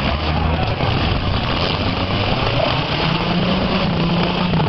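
Demolition derby cars' engines running loud together, low engine notes holding and breaking off over a dense steady noise.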